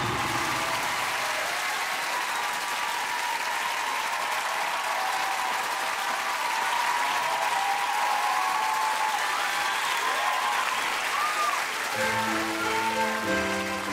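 Live audience applauding and cheering, with a few shrill voices gliding up and down over the clapping; about twelve seconds in, the band's instrumental intro to the song begins under the applause.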